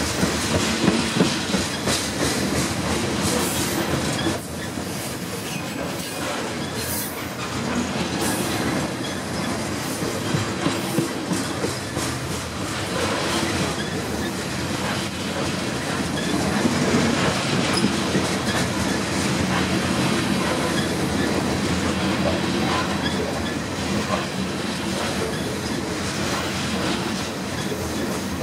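Covered hopper cars of a freight grain train rolling past close by: a steady rumble of steel wheels on rail, broken by frequent clicks of wheels passing over rail joints.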